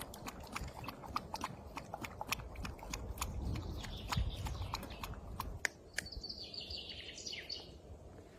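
Scattered raindrops tapping irregularly, several a second, over a low rumble. The taps thin out after about six seconds, and a brief high chirp comes near the end.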